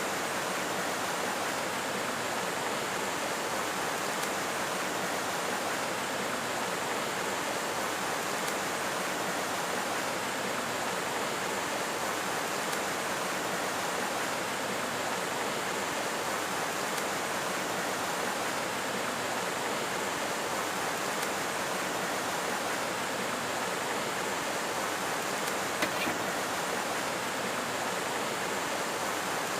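Steady rushing of flowing water, even and unchanging, with one brief click near the end.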